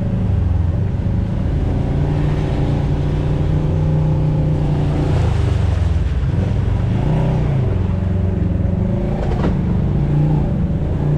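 Off-road vehicle's engine running, its pitch dipping and rising again with the throttle partway through. A sharp knock sounds once near the end.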